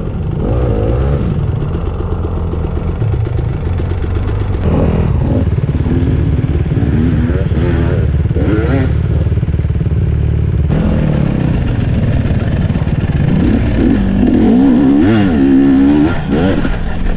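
Enduro dirt bike engine running hard close to the microphone, the revs rising and falling again and again as it works up a steep forest slope.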